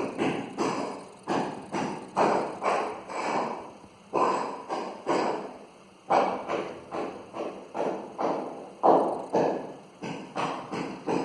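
Irregular series of knocks and thumps on a hard surface, two or three a second, each dying away quickly.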